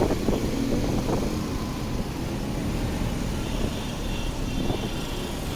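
Motorcycle engine running steadily under way, heard from the pillion seat, with road and wind noise.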